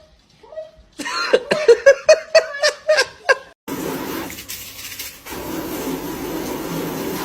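A person laughing in a quick run of short ha-ha pulses lasting about two and a half seconds. After a brief break, a steady hiss of background noise follows.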